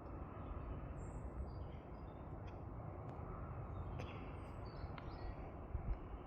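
Outdoor ambience: scattered short, high bird chirps over a steady low rumbling noise, with a brief low thump near the end.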